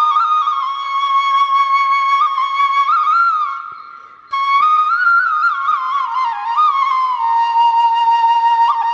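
Background music: a solo flute playing a slow, ornamented melody with sliding notes. The melody fades out about four seconds in and starts again abruptly.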